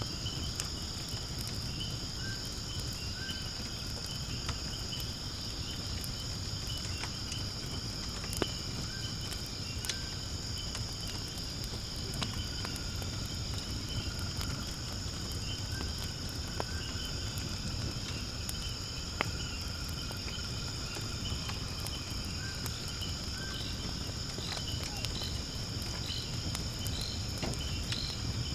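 Firewood burning in a fire pit, crackling with scattered sharp pops, over a steady high trilling of insects and repeated short chirps.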